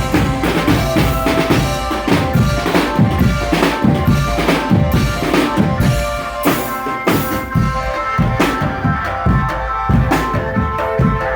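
A marching drum band playing: snare and bass drums beat a steady, driving rhythm under a held melody.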